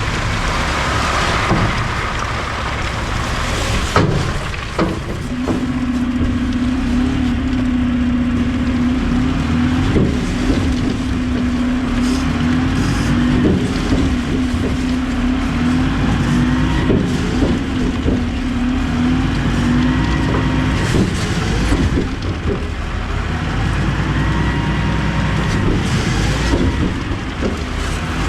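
Garbage truck's engine and hydraulics running the packer on a loaded hopper: a steady low rumble with clanks and knocks of trash, a steady low whine for about fifteen seconds, then short rising whines that repeat every couple of seconds.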